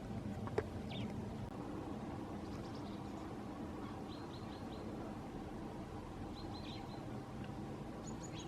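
Small birds giving short high chirps in quick series of three or four, several times, over a steady low rumble.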